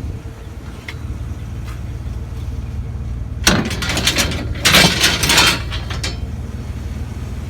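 A vehicle engine idling steadily, with loud clattering and rattling of metal scrap being handled and loaded between about three and a half and six seconds in.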